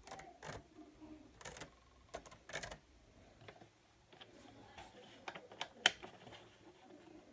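Tri-ang 0-4-0 OO gauge model locomotive under power but barely moving: faint, irregular clicks and ticks as it twitches and stutters on the track, with one sharper click near the end. The owner puts its reluctance down to dirty wheels making poor contact.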